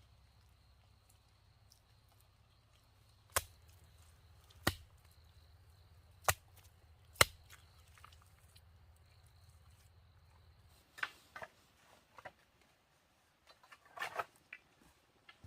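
Four sharp knocks of a tool striking wood, a second or so apart, then a run of lighter clicks and knocks near the end.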